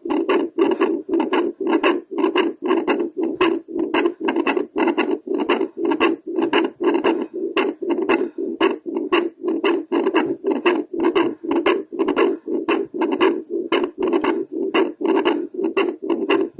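A woman's heartbeat picked up by a handheld Doppler: fast, regular whooshing pulses, about three a second, with her heart rate raised by squats.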